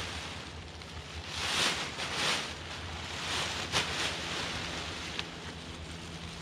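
Outdoor wind buffeting the microphone, swelling in gusts about one and a half to two and a half seconds in, with rustling and a sharp click near the middle.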